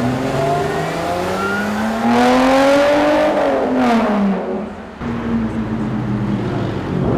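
Sports car engines accelerating hard. A Lotus Exige S pulls away with its revs climbing, then another car accelerates and passes, its engine pitch falling as it goes by. About five seconds in, this gives way to steadier low engine sound from cars rolling slowly.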